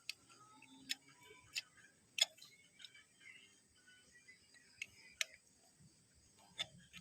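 Scattered sharp clicks and light taps, roughly one a second at uneven intervals, of small hard parts being handled while nuts are fitted and tightened.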